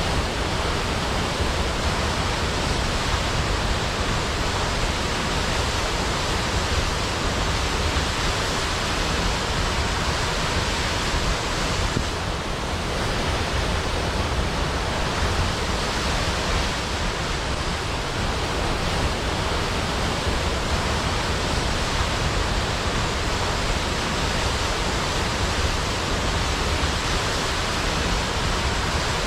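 Large waterfall crashing down a cliff into a pool: a steady, unbroken rush of water.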